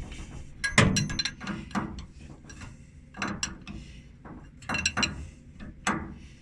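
A 1" wrench tightening a steel hydraulic hose fitting: irregular metallic clicks and clinks as the wrench is set on the fitting, turned and reset, the sharpest about a second in.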